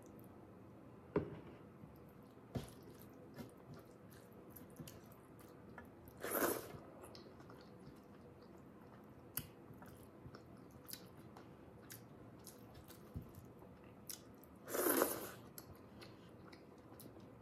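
A person eating rice and curry by hand close to the microphone: soft chewing, mouth clicks and wet squishes of food being mixed with the fingers. Two louder half-second noisy sounds stand out, about six seconds in and near the end.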